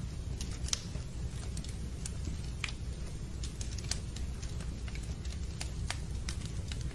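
Wood fire in a fireplace crackling: irregular sharp pops and snaps, a few every second, over a steady low rumble.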